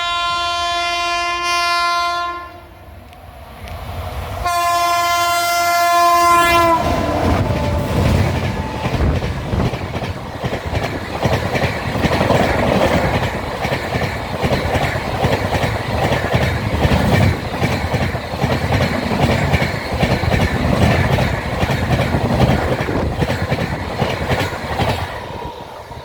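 An Indian express train's locomotive horn gives two long blasts, the second dropping in pitch as it ends. The train then runs past, its wheels clattering over the rail joints in a fast, even rhythm for about eighteen seconds before the sound cuts away near the end.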